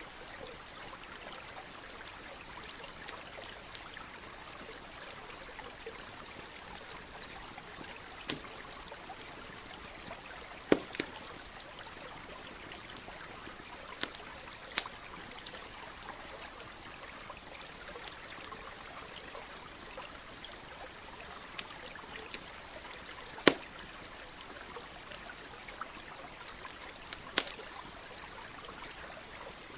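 Campfire crackling with sharp, irregular wood pops, the loudest about a third of the way in and again near three-quarters through, over the steady murmur of a stream.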